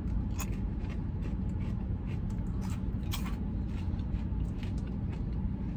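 Crunchy coated popcorn being chewed, a few faint crunches and crackles, over the steady low hum of the car.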